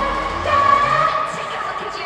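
K-pop girl group song with singing, played loud over a stage sound system at a live performance. The bass drops out at the start, leaving held melody lines.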